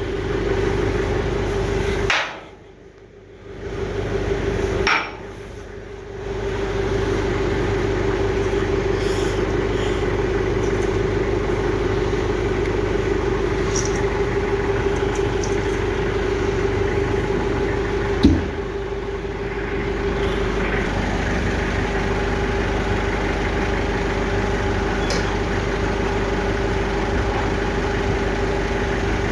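A machine motor running with a steady hum. It drops out briefly twice in the first few seconds, then runs on evenly, with one sharp knock about 18 seconds in.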